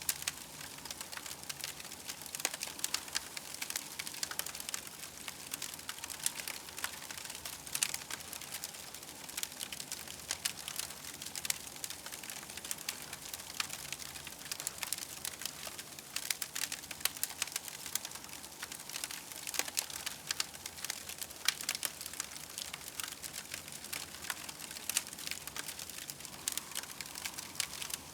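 Campfire crackling: a dense stream of small sharp pops and snaps over a steady hiss.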